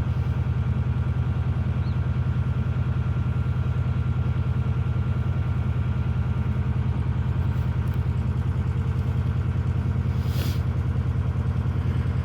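Narrowboat diesel engine running steadily at cruising speed, a low, even pulsing chug. A brief hiss comes about ten seconds in.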